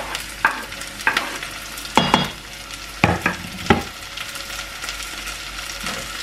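Onions frying in olive oil in a stainless steel saucepan, sizzling steadily, as chopped red peppers are tipped in off a wooden chopping board. About five sharp knocks and clatters come in the first few seconds.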